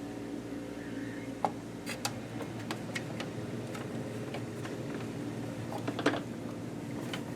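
Scattered light clicks and taps from small tools, screws and the plastic housing being handled while a sewing machine is taken apart. The loudest click comes about six seconds in, and a steady low hum runs underneath.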